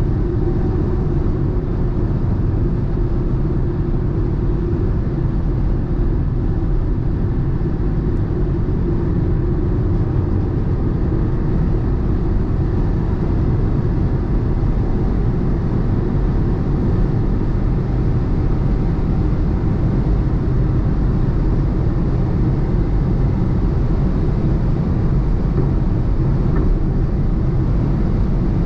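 BMW 118i (F40) at high speed on the autobahn: a steady engine drone from its three-cylinder turbo petrol under heavy wind and tyre roar, with no gear changes or clear revving.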